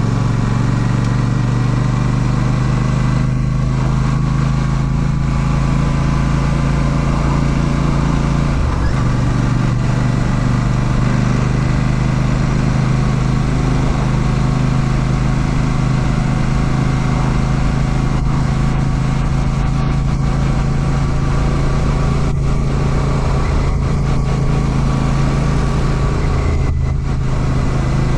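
Royal Enfield Classic 650's 648 cc parallel-twin engine running at a steady pace while riding, its note shifting briefly about a third of the way through, over a steady rush of road and wind noise.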